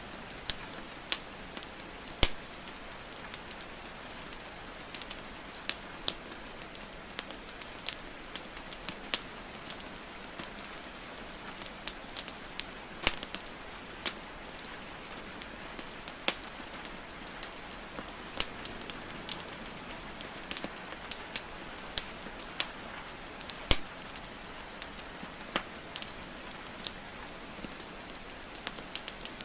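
Burning wood fire crackling, with frequent irregular sharp pops, over a steady hiss of falling rain. Two of the pops stand out louder, one about two seconds in and one late on.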